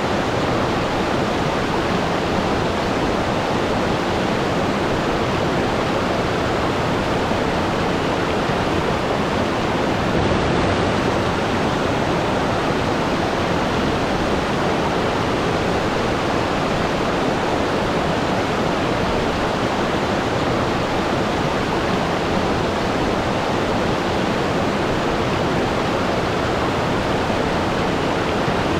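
Waterfall: water falling and crashing in a steady, dense rush with no breaks or changes.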